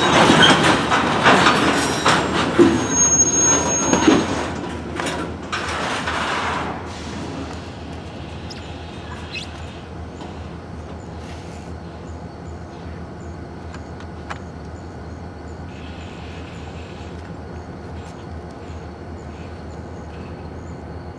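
Freight train of covered hopper cars moving slowly during switching: rumbling and clanking of wheels and couplers, with a brief high wheel squeal. The noise dies down about seven seconds in as the cars stop, leaving a low steady hum.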